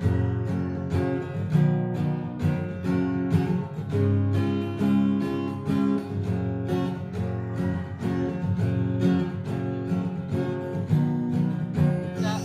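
Acoustic guitar strummed in a steady rhythm, with the chords changing every so often.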